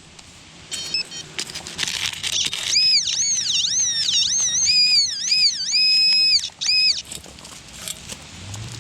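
Metal detector's electronic target tone warbling, its pitch swinging up and down over and over as the coil or probe is passed back and forth over a shallow target. Short clicks, scrapes and brief beeps come before it.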